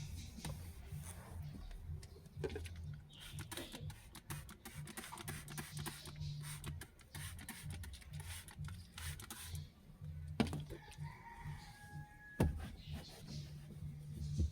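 Rustling, clicks and knocks of things being handled while cleaning inside a car, over a low steady hum, with a short high-pitched call about eleven seconds in.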